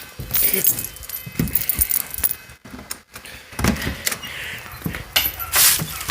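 A bunch of keys jangling as they are handled, with scattered clicks and a few louder knocks.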